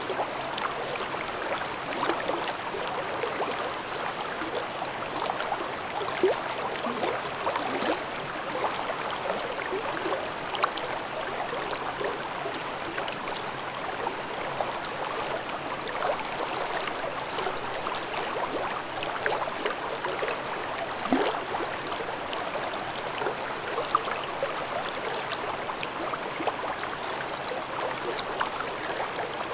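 Mountain stream babbling over rocks: a steady rush of water with constant small gurgles and splashes.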